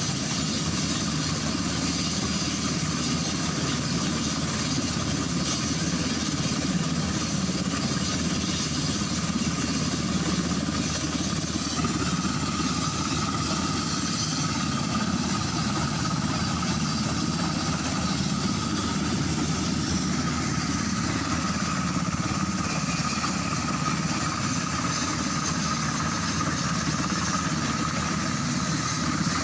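UH-60 Black Hawk helicopter's twin turboshaft engines running steadily at ground idle, rotor turning. A thin steady whine joins about twelve seconds in.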